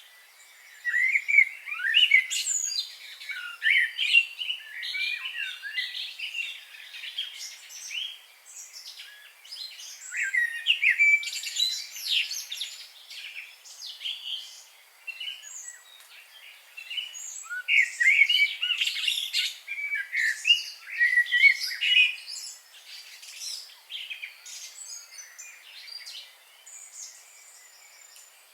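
Several wild birds singing and calling at once: a dense chorus of chirps and whistled phrases that comes in busy spells with thinner stretches between them.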